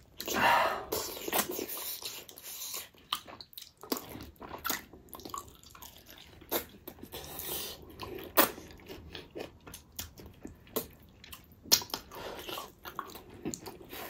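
Close-miked chewing and lip-smacking of two people eating gelatinous pork trotters by hand: irregular wet smacks and clicks, with a longer, louder wet sound in the first second or so.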